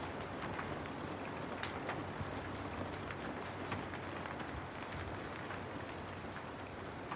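Steady rain falling on a window, with individual drops tapping sharply here and there over the even hiss.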